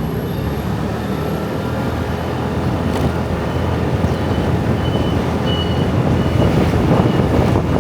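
Dense motor-scooter traffic streaming past: a steady mass of small engines and tyre noise that grows a little louder in the second half, with faint short high-pitched squeaks now and then.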